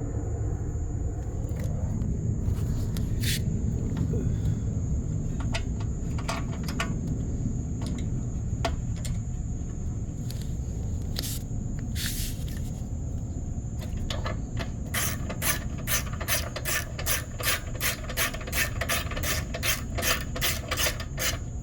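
Socket wrench ratchet clicking as a bolt on the pressure washer's gas tank is turned: scattered clicks at first, then from about two-thirds of the way in a steady run of quick clicks, three to four a second. A steady low rumble sits underneath throughout.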